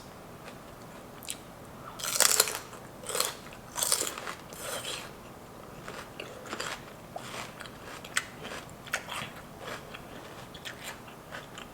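Raw celery being bitten and chewed: loud crunches about two seconds in and again around four seconds, then a run of smaller crunching chews.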